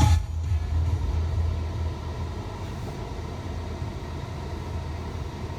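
Steady low drone of a car, engine and road rumble heard from inside the cabin, just after music cuts off at the start.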